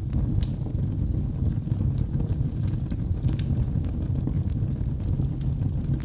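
Wood fire burning in a fireplace: a steady low rush of flames with scattered small crackles and pops, a few each second.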